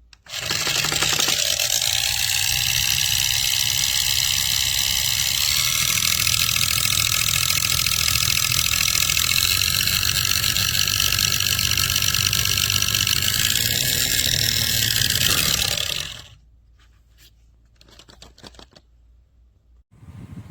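Small battery-powered USB desk fan running at a high speed: the motor spins up about a second in to a steady whir with a high whine, and stops about sixteen seconds in.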